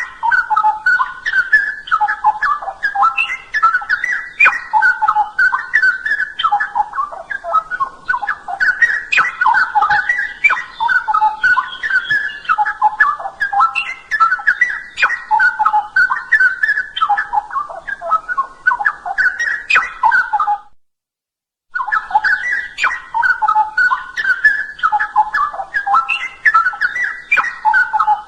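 Straw-headed bulbul (cucak rowo) singing a loud, rich, fast-warbled song of liquid whistled notes. The song breaks off about two-thirds of the way through for a second of dead silence, then picks up again.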